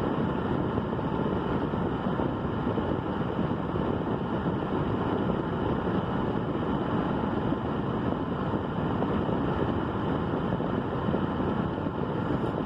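Steady, even rushing noise with no distinct tones or separate events.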